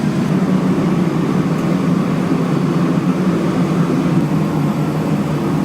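Steady low rumble of a running vehicle at an even level, without pauses.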